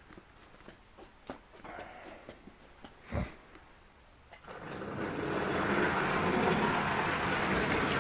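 A few small clicks and a single knock, then about four and a half seconds in an old American Flyer toy train starts up: its locomotive's electric motor and wheels on the track run with a steady mechanical rumble that builds over a second or so, the train being tried after long storage to see whether it still runs.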